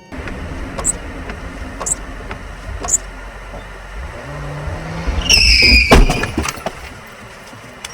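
Car driving with steady road and engine rumble, then a loud, high tyre squeal of a skid about five seconds in, cut off by a sharp bang of a collision.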